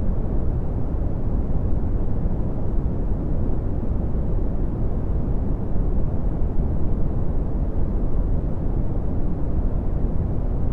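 Red (Brownian) noise: a steady, deep rushing hiss with its strength at the bottom and falling away steeply toward the highs.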